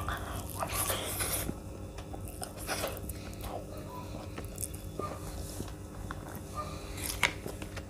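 Close-miked chewing and wet mouth sounds of a person eating a big handful of veg biryani by hand, with scattered smacks and clicks and a few louder bursts about a second in, near three seconds and near seven seconds. A faint steady hum runs underneath.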